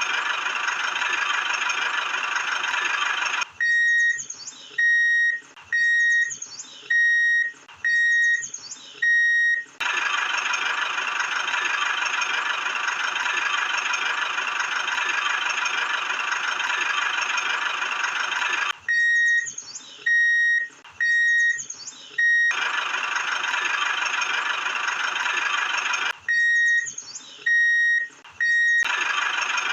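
A steady high-pitched whine. Three times it gives way to a run of short electronic beeps, all at one pitch and about one per second.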